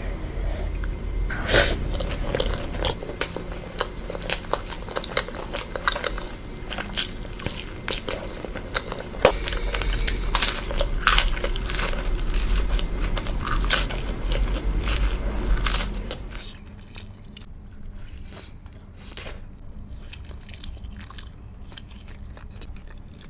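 Close-miked eating: a person biting and chewing crunchy food, with many sharp crunches. About two-thirds of the way through it drops to quieter, softer chewing.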